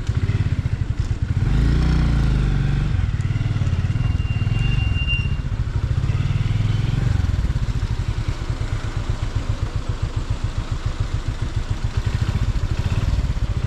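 112 cc TVS Victor motorcycle's single-cylinder engine running steadily while under way, its firing beats pulsing evenly.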